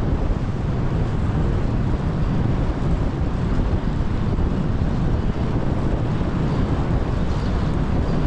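Wind buffeting a GoPro's microphone during a fixed-gear bicycle ride, a steady low rumble with traffic noise mixed in.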